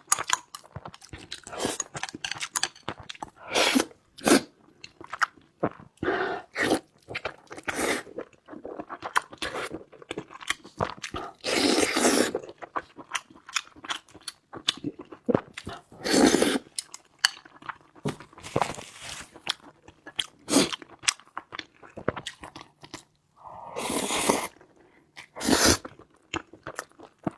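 Close-up sounds of a person chewing and biting food: many short wet mouth clicks and crunches, with a few longer, louder bursts of chewing noise at intervals.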